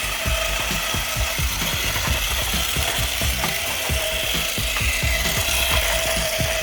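Homemade RC toy tractor running: a small electric gear motor whining steadily while its drive grinds and rasps, with a rapid low knocking of about five beats a second.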